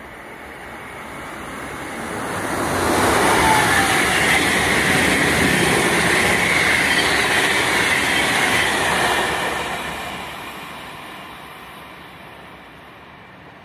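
Intercity passenger train of locomotive-hauled coaches passing at speed: the rolling noise of wheels on rail swells over about three seconds, holds loud for about six seconds with a high hiss over it, then fades away as the train recedes.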